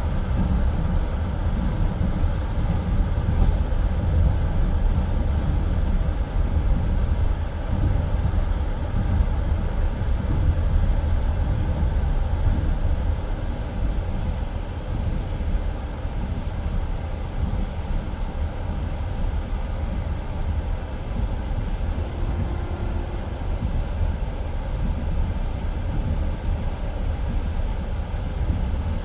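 Passenger train carriage running at speed on the open line, a steady rumble of wheels on rails heard from inside the carriage.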